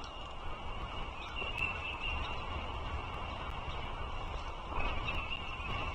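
Bald eagles' high, thin chirping calls at the nest, brighter about two seconds in and again near the end, over a steady low rumble.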